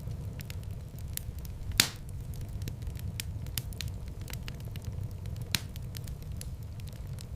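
Wood fire crackling in a fireplace: a steady low rumble of flames under frequent sharp crackles, with a loud pop a little under two seconds in and another about five and a half seconds in.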